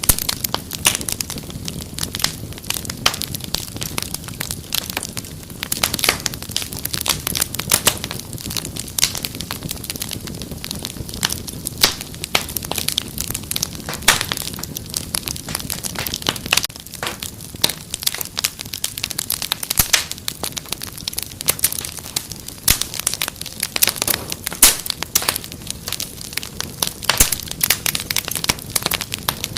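Wood fire crackling in a fireplace: a dense, irregular run of sharp pops and snaps over a low, steady rumble of flames.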